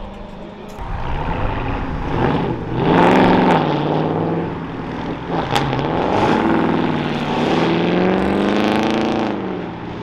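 Dodge Charger's V8 engine revving hard as the car pulls away, its pitch climbing and falling twice, with one sharp crack a little past halfway.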